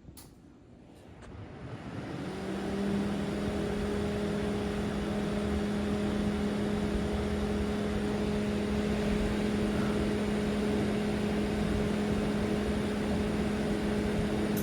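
Broan bathroom exhaust fan with a shaded-pole motor and propeller blade, switched on with a click. It spins up over about two seconds, then runs steadily with an even hum and a rush of air, its motor freshly oiled. Right at the end it is switched off and starts to wind down, its hum falling.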